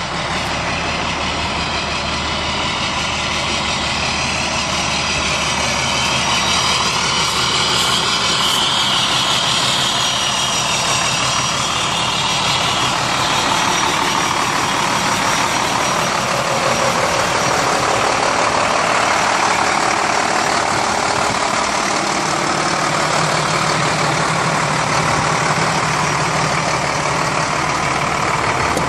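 International CXT truck's diesel engine running steadily, with a broad, continuous mechanical noise.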